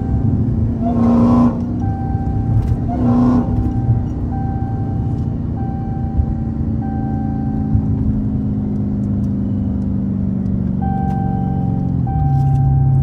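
Dodge Challenger's V8 heard from inside the cabin: two short bursts of throttle in the first few seconds, then a steady drone that sinks slowly in pitch as the car slows, and a lower, louder note near the end.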